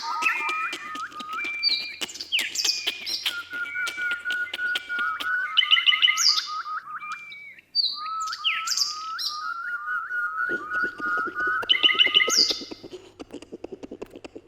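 Several birds singing and calling at once: one repeats a rapid run of short rising notes while others add higher chirps and trills over it. A brief gap comes about halfway, and the calling thins out near the end.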